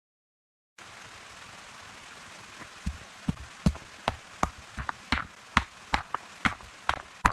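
Steady rain hiss starting just under a second in, joined about three seconds in by a quick run of sharp knocks, roughly two or three a second, that are louder than the rain.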